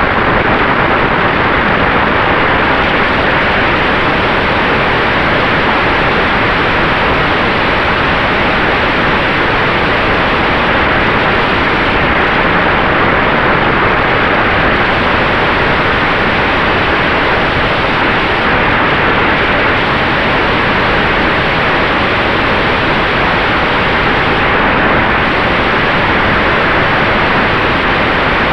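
Steady rushing noise of airflow and the electric drive in the cockpit of a Sonex Xenos electric airplane, with a faint steady whine beneath it.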